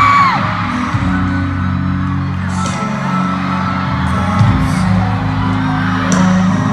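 Live pop concert sound in a stadium: bass-heavy music over the PA with fans whooping and screaming.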